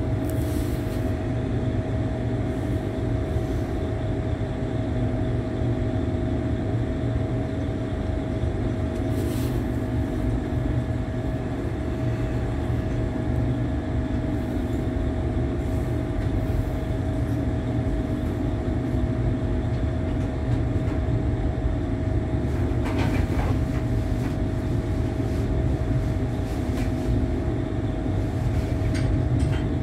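Passenger train heard from inside the carriage: a steady low rumble of the train running on the track, with a steady whine over it. A few brief rattles sound, the loudest about 23 seconds in.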